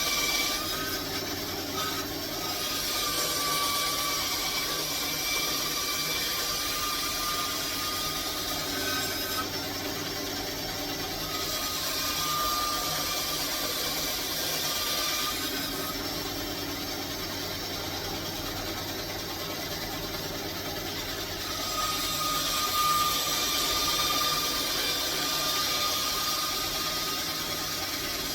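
A power tool running continuously on wood, with a steady motor whine and a hissing grind that swells for several seconds at a time as it bites into the wood.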